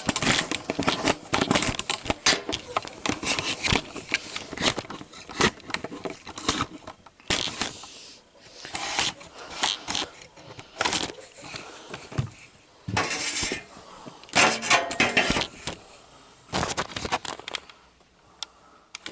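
Irregular metallic clinks, clatters and scrapes of hand tools and small hardware being handled while working on a garden tractor, with a few longer scraping stretches in between.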